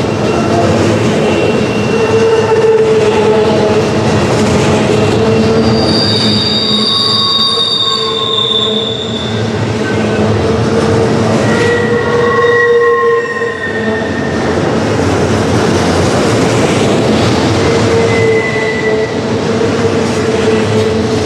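Double-stack intermodal well cars rolling past close by, with a loud steady rumble of wheels on rail. High-pitched wheel squeals come and go several times as the cars round the curve.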